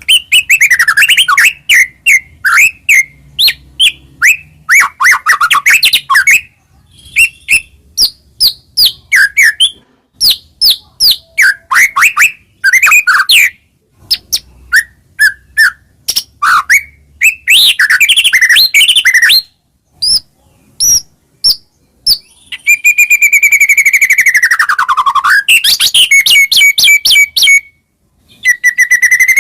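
White-rumped shama singing a loud, varied song: quick runs of chirps, trills and whistled notes broken by brief pauses, with a longer whistle about three quarters through that dips in pitch and rises again.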